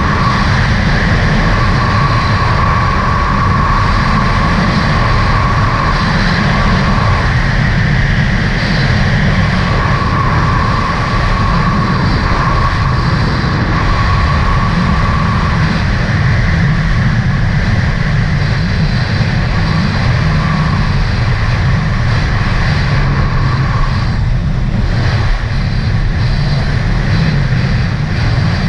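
A 2018 Sea-Doo RXT-X 300 personal watercraft running steadily at speed, its engine noise loud and unbroken, with a high whine that fades in and out a couple of times.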